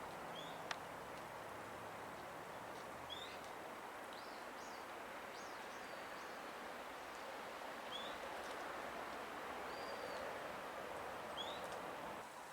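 Japanese white-eyes calling: short, thin, high upslurred notes every few seconds, with a brief cluster of twittering about a third of the way in and one longer held note near the end, over a steady outdoor hiss.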